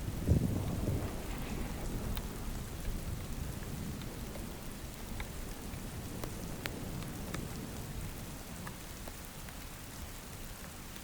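Steady rain falling, with scattered drop ticks, under a low rumble of thunder. The thunder is strongest in the first second and slowly dies away.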